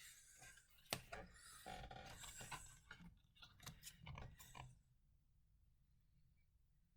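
Faint clicks and rustling, with one sharper click about a second in, then near silence for the last two seconds.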